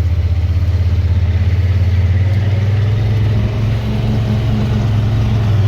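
Heavy truck's diesel engine idling steadily with a low, even pulse, its note rising slightly about two seconds in.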